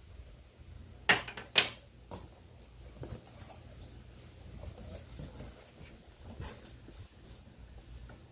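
Cardboard shipping box and its packaging being opened and handled by hand: two loud, sharp sounds about half a second apart about a second in, then scattered rustling and scraping.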